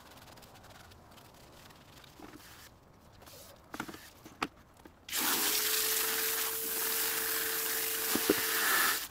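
Faint scrubbing and a couple of sharp clicks while a brake caliper is cleaned, then, about five seconds in, a loud steady hissing spray with a faint steady tone under it, which cuts off sharply near the end.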